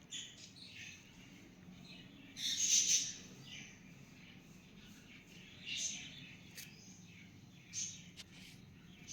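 Pet cockatiel chirping: a few short calls spaced a couple of seconds apart, the longest and loudest about two and a half seconds in.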